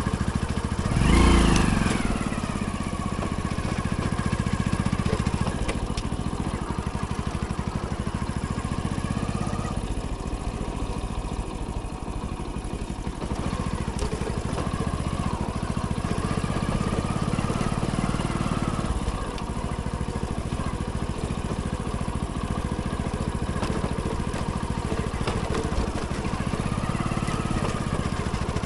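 Hero Splendor's small single-cylinder four-stroke engine running while the motorcycle rides along, its pitch drifting gently up and down with speed. There is a brief loud surge about a second in.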